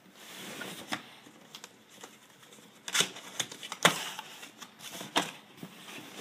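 A cardboard box being handled and opened: rustling and scraping with several sharp knocks and clicks, the loudest about three and four seconds in.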